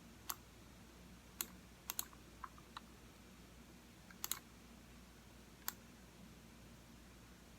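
Computer mouse clicking at irregular intervals: about seven sharp clicks, including two quick double clicks, with a few fainter ticks between them.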